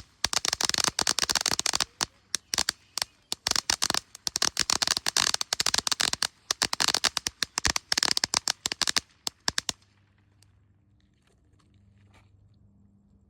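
A consumer firework crackling: a fast, dense string of sharp cracks and pops that stops suddenly about ten seconds in.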